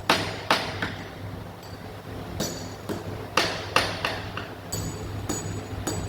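Hammer taps on metal engine parts, about a dozen sharp strikes at an uneven pace of one to three a second, several leaving a brief metallic ring. A low steady hum runs underneath.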